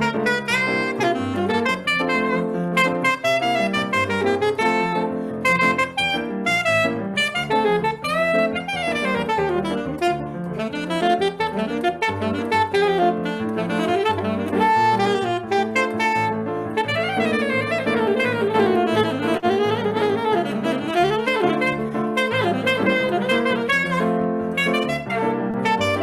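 Live saxophone playing Brazilian music, with fast runs that sweep up and down over a sustained accompaniment.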